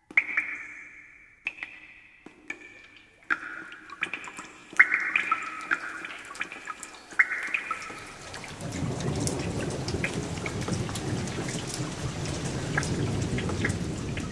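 A few separate ringing, chime-like notes, each fading away, then from about halfway a steady hiss of falling rain with a low rumble of thunder: rain-and-thunder sound effects opening the song.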